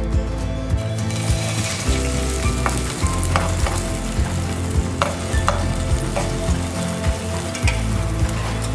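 Shredded potato sizzling in hot oil in a nonstick frying pan as it is spooned in. The sizzle picks up about a second in, with a few light clinks and scrapes of the spoon against the pan.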